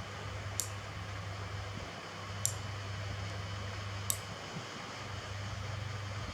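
Nails being clipped: three short, sharp snips about two seconds apart, over a steady fan hum.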